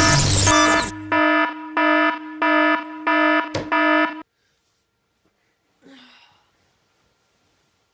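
Electronic alarm beeping, a pitched tone repeating about twice a second, typical of an alarm clock going off, until it cuts off suddenly about four seconds in. A loud musical intro ends in the first second.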